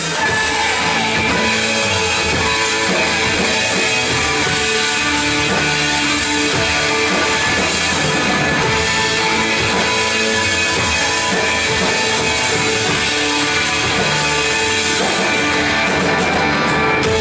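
Church worship band playing an instrumental passage with guitar and drum kit, no singing.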